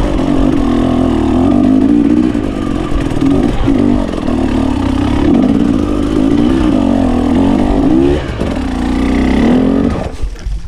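GasGas 300 two-stroke enduro motorcycle engine under way, revs rising and falling again and again with the throttle. The engine note falls away sharply near the end.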